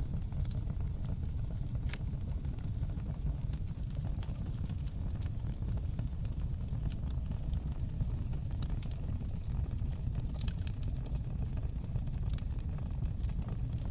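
Fire in an open stone fireplace crackling, with irregular sharp snaps and pops over a steady low rumble of the flames.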